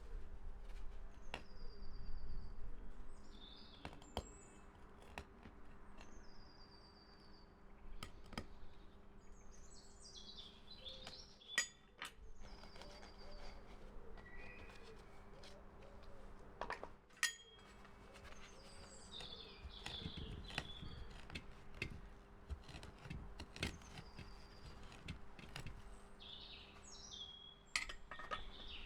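Birds singing outdoors: a short, high, falling whistled phrase repeats every few seconds, mixed with other twittering calls. Occasional sharp clicks and knocks sound through it, the loudest about 11.6 s and 17 s in.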